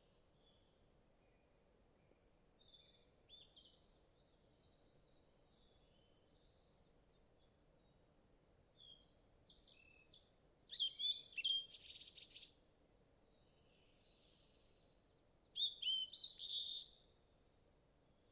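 Wild birds calling: scattered short chirps and whistled notes over a faint steady background hiss, with two louder runs of calls in the second half.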